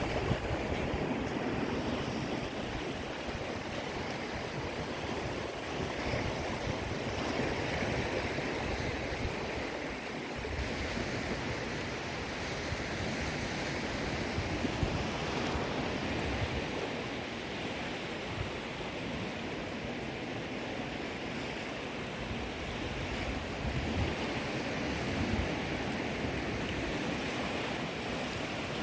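Sea waves washing onto the shore, a continuous rush that swells and eases slowly every few seconds.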